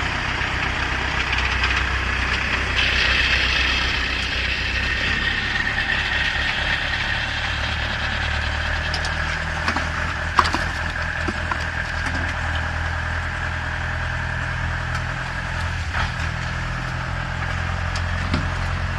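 Engine of a 3-ton crawler dump tractor running steadily, with a few sharp knocks about ten and sixteen seconds in.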